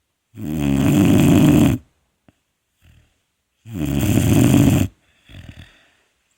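Vizsla puppy snoring: two loud snores, each a little over a second long and about three seconds apart, with a faint breath after the second.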